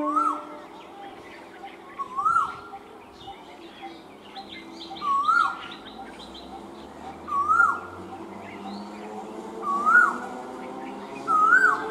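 A bird repeats a short call six times, about every two seconds: a note that rises, holds briefly and drops sharply, with other birds chirping higher in between. From about nine seconds in, a steady whine slowly rises in pitch as the electric multiple unit train's motors pull away.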